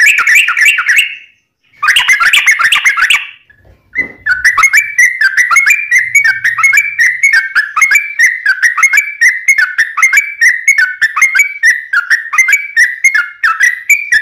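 Yellow-vented bulbul (trucuk) singing: two short bursts of dense chattering, then after a brief pause a long, unbroken run of quick repeated whistled notes.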